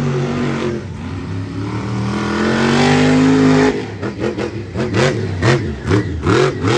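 Axe monster truck's engine revving: one long rev climbing steadily in pitch for about three and a half seconds, then a sudden drop and a run of short, sharp throttle blips, about two a second.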